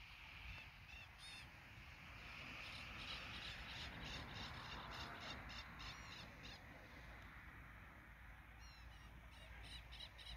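Faint bird calls: runs of short, harsh repeated notes, about two or three a second, a few early and in longer runs from about two seconds in and again near the end.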